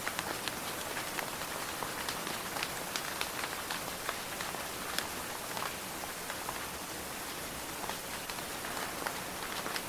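Steady rain: an even hiss with many sharp, distinct drop hits close by.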